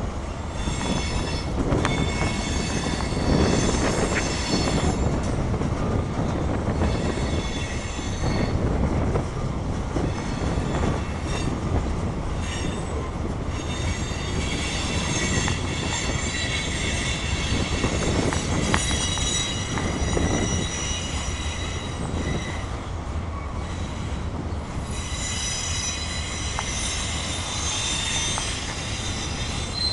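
Freight train cars rolling past with a steady rumble from the wheels. High-pitched wheel squeal comes and goes several times over it.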